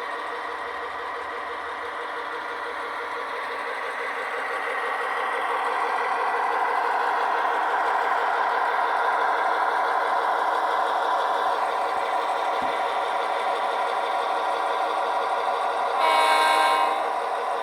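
Sound-equipped HO scale model diesel locomotive running, its engine sound growing louder a few seconds in. One short horn blast near the end.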